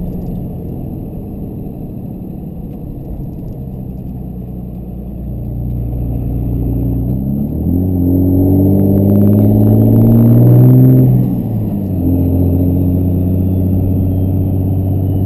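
Compound-turbocharged 5.9 Cummins inline-six turbo-diesel pulling under acceleration, its note climbing and growing louder for several seconds. Near the end it drops suddenly as the driver shifts up a gear, then runs on steadily, heard from inside the cab.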